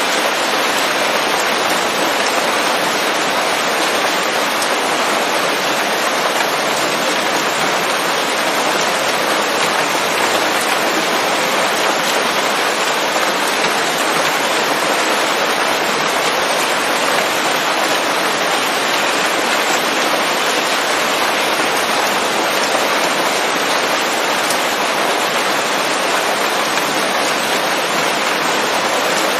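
Steady rain falling on forest leaves: an even, unbroken hiss of countless drops, with no thunder.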